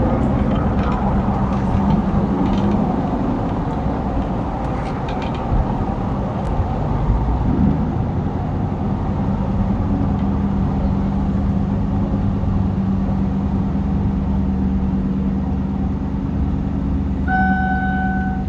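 V8 pickup engine fitted with a BTR Stage 1 truck cam, heard from inside the cab while driving: a steady engine drone over road noise. Near the end a seatbelt warning chime starts, beeping about once a second.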